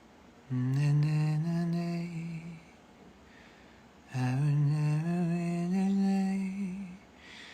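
A man humming a slow melody unaccompanied in two phrases, the first about two seconds long and the second about three, with held notes and a short pause between them.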